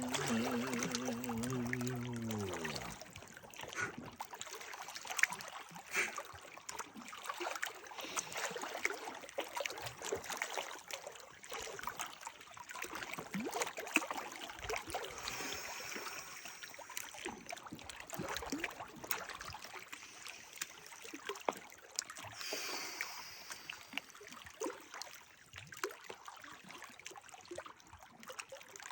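Water trickling and gurgling, with many small splashes. A voice holding a wavering note fades out in the first couple of seconds.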